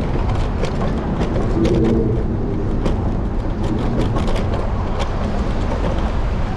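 An electric scooter riding over city pavement, heard from its handlebars: a steady low road and wind noise with many irregular clicks and rattles. A brief pitched tone comes in about a second and a half in.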